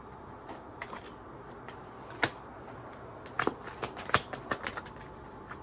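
Tarot cards being handled: scattered sharp snaps and clicks, with a quick run of several card flicks about three and a half seconds in.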